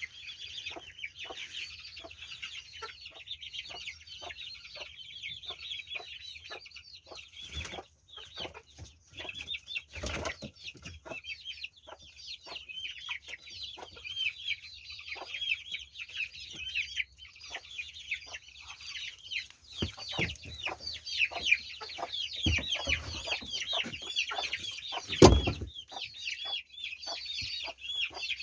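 Chickens clucking amid steady, dense high-pitched chirping from the flock, with many short clicks and a few louder knocks, the loudest about 25 seconds in.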